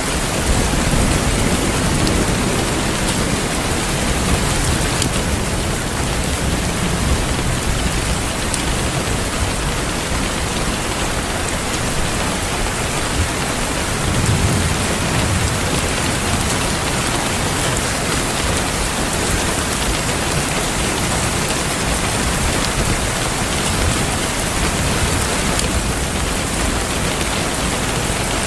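Steady heavy rain, with low rolls of distant thunder swelling near the start and about halfway through.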